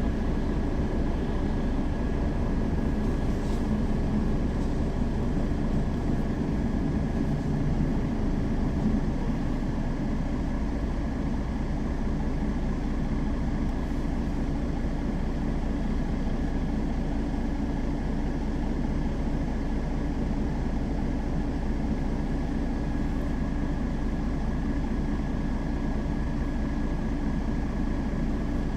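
Mercedes-Benz Citaro facelift city bus running with a steady engine drone and a thin, steady high whine; the low rumble shifts slightly during the first ten seconds, then stays even.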